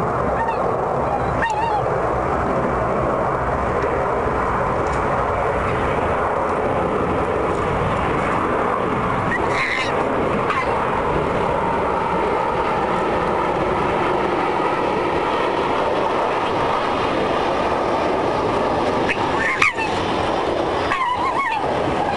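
Red fox giving a few short honking calls, about a second in, around ten seconds in and again near the end, as it defends its food from a rival fox. The calls sit over a steady background noise.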